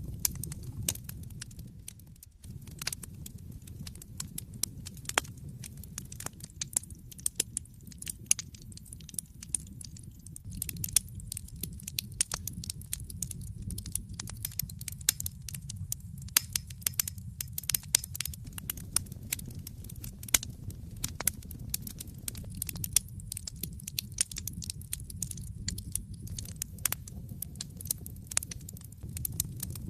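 Wood fire burning in a fireplace: a low steady rumble of flames with many sharp, irregular crackles and pops from the burning logs.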